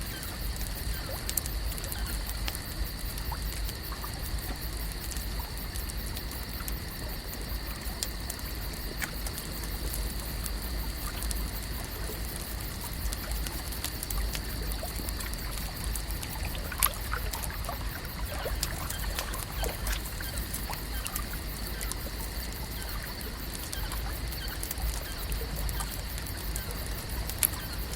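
Lakeside ambience: water gently trickling and lapping under a steady high-pitched drone, with scattered small clicks and ticks, a sharper one about 17 seconds in and another near the end.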